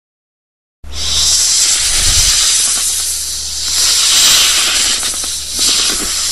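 A snake hissing: a loud, continuous hiss that starts abruptly about a second in, then swells and eases slightly without a break.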